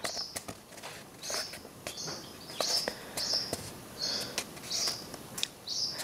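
A small bird chirping again and again, about ten short, high chirps, with light paper rustles and taps of handled pages.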